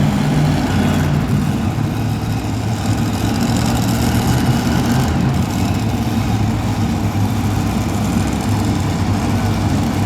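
Two-wheel-drive super modified pulling truck's engine idling steadily.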